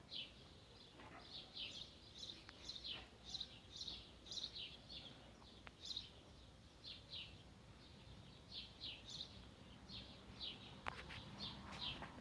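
Small birds chirping: a quick, irregular run of short, high chirps, several a second, heard faintly.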